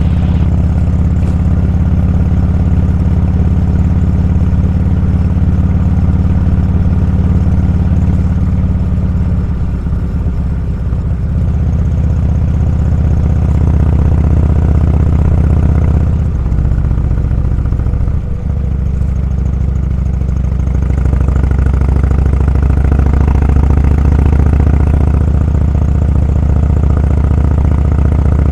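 Motorcycle engine running steadily under way, a low drone with brief dips around ten seconds in and again around seventeen to eighteen seconds in.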